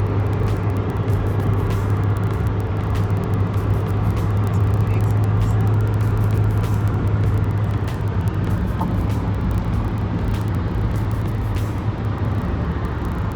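Road noise inside a moving car on a wet road: a steady low drone with an even hiss from the tyres.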